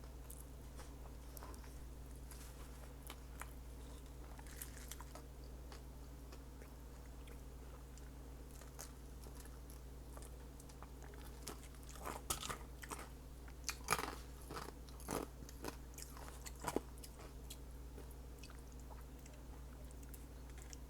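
Close-miked chewing and biting of a taco. About halfway through comes a run of louder crunchy bites, and a steady low hum runs underneath.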